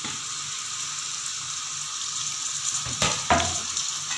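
Chopped onions and tomatoes sizzling steadily in hot oil in a wide metal pan. A metal spoon knocks and scrapes in the pan a couple of times about three seconds in.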